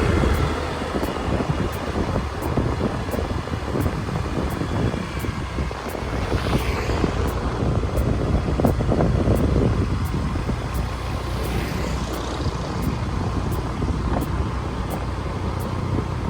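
Motorbike engine running steadily during a ride, with wind rushing over the microphone; twice a falling sweep passes, about six and about eleven seconds in.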